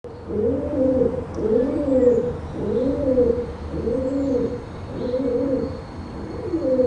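A pigeon cooing, a low rising-and-falling coo repeated about once a second, seven in a row.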